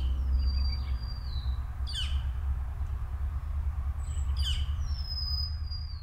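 Bird calls: three sharp, steeply falling calls about two seconds apart, and two long high whistles that slide slightly lower. They sound over a steady low rumble.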